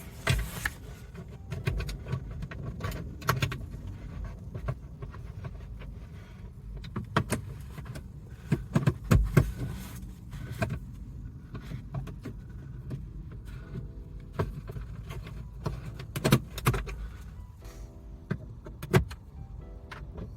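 Hand work on plastic interior trim with small screws: irregular clicks, knocks and small metallic rattles, several sharper knocks standing out along the way.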